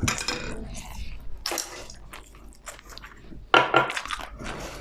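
A person chewing and crunching food close to the microphone, in separate noisy bursts: at the start, about a second and a half in, and about three and a half seconds in.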